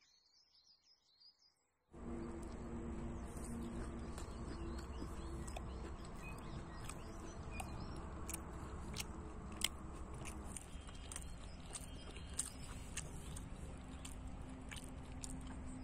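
Faint birdsong, then from about two seconds in a person biting and chewing a paneer taco close to the microphone: a continuous rush of noise with scattered sharp mouth clicks.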